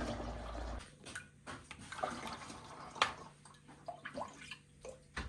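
Scattered clicks and knocks of household objects being handled, with a short hiss in the first second and the sharpest knock about three seconds in.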